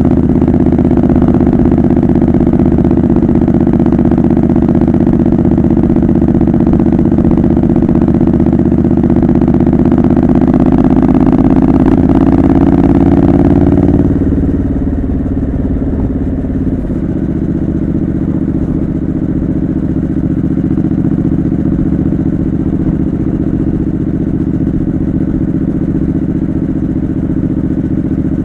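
Triumph Scrambler 900's parallel-twin engine through a homemade exhaust, pulling under throttle with its pitch slowly rising, then dropping off sharply about halfway through as the throttle is eased, and carrying on at a quieter, steady note.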